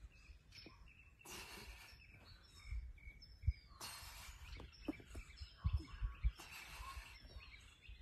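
Small birds chirping now and then, with short rushes of noise every couple of seconds and a few dull low thumps.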